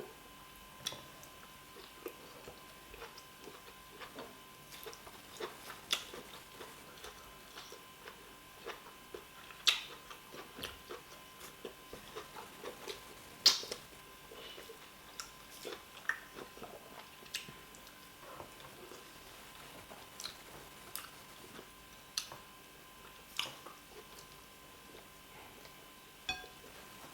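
Close mouth sounds of someone eating fufu with soup: wet chewing, lip smacks and small clicks, scattered irregularly, with two sharper smacks about ten and thirteen seconds in.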